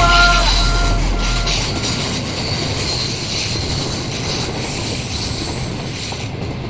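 Train running on rails, a steady rushing noise with thin high-pitched squealing or whining tones, slowly growing quieter. The last notes of a pop song die away in the first second or so.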